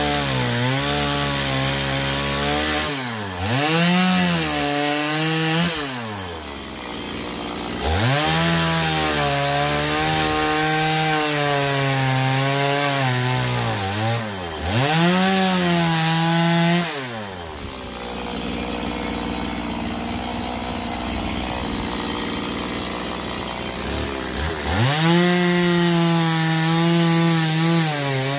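Small two-stroke chainsaw cutting through eucalyptus logs. The engine's pitch sags and recovers several times as the chain bites into the wood, then holds at a steady, noisier cut for several seconds in the second half before bogging down again near the end.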